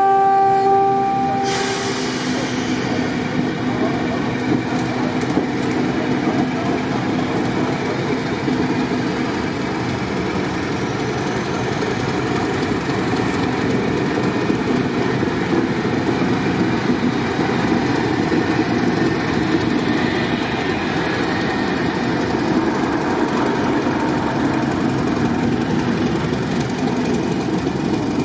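Diesel locomotive horn sounding briefly at the start, then a train hauled by a diesel locomotive running steadily with continuous engine and rail noise.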